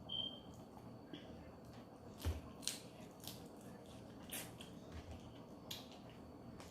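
Blue crabs being eaten close to the microphone: shells cracking and snapping, with wet chewing and mouth clicks at irregular moments. The loudest crack comes about two seconds in.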